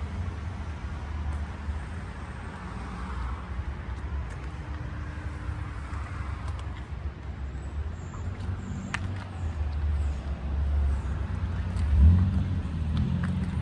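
Motor vehicle engine idling with a steady low rumble, swelling louder about twelve seconds in.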